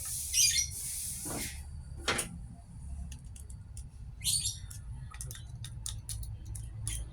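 Birds chirping in a few short bursts, with scattered light clicks and a steady low hum underneath.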